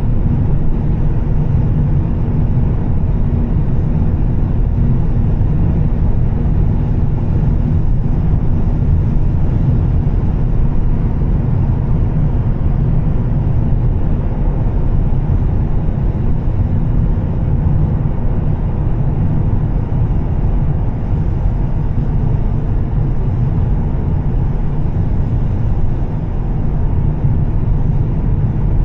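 Volvo S60 T6's turbocharged straight-six with a Heico aftermarket exhaust, cruising at a steady speed. A constant low drone of engine, exhaust and road noise, with no revving up or down.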